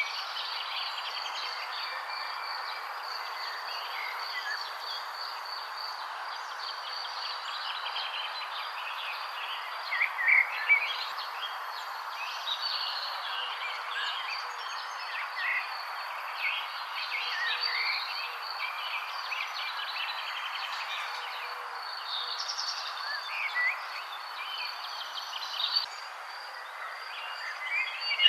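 Songbirds chirping and singing in short phrases, with louder bursts about ten seconds in and near the end, over a steady background hiss and a constant thin high-pitched drone.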